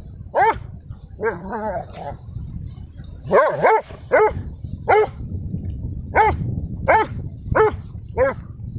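A dog barking repeatedly in short, high-pitched, yappy barks, about ten in all, some in quick pairs and a brief warbling run about a second in, as dogs play.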